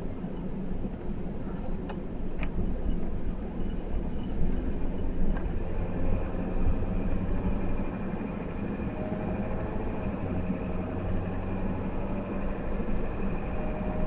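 Steady engine and road noise of the ambulance-conversion truck driving along, with faint steady whine tones above the rumble.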